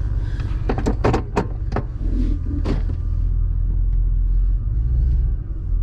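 Car running, heard from inside the cabin: a steady low rumble, with a handful of sharp clicks or knocks between about one and three seconds in.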